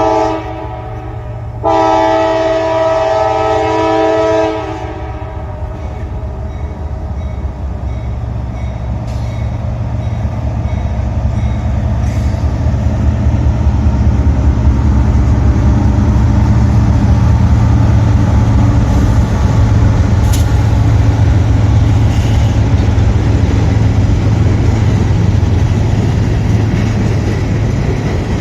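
Locomotive air horn sounding a chord of several notes: a brief toot, then a blast of about three seconds. Then the train runs past with a steady low rumble that grows louder toward the middle and stays loud.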